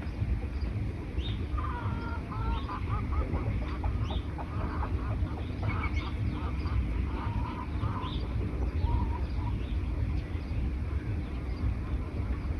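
Birds calling in a forest: short high chirps repeating about once a second, with a run of lower, wavering calls for a few seconds in the first half. A steady low rumble runs under the birdsong.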